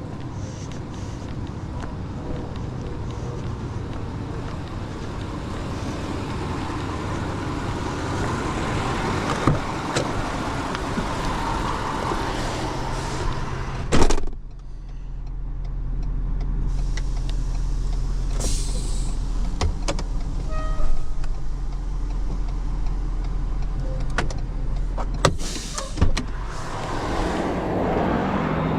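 A motor vehicle's engine running steadily with road or cabin noise and scattered clicks and knocks. A loud knock about halfway through, after which a deep steady low hum carries on.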